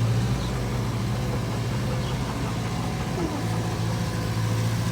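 A vehicle engine running steadily at low revs, a low hum that dips slightly partway through and comes back.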